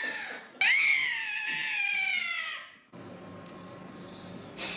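A hungry cat's long, drawn-out meow: the tail of one call, then a second one of about two seconds that starts high and slides down in pitch. After that, only faint room noise.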